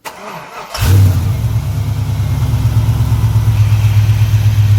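A 5.3-litre LS V8 cranks briefly, catches about a second in and settles into a steady idle through a new single exhaust with an open Magnaflow muffler and no tip. This is a first start after sitting for two or three months, and the pipe is not yet clamped at the header, so it leaks there.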